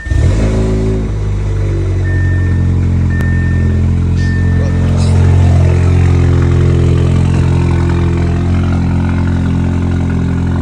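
Audi S3's turbocharged four-cylinder engine, fitted with a resonator delete and downpipe, fires up at once and settles into a steady, loud cold-start idle after a week unstarted. Three short high beeps sound about two, three and four seconds in.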